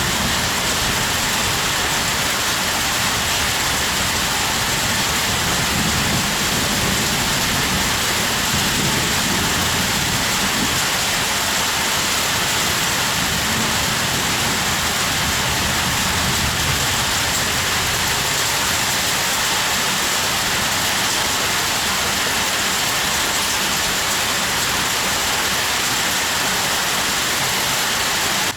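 Heavy rain falling steadily, a dense even hiss of drops striking the ground and foliage.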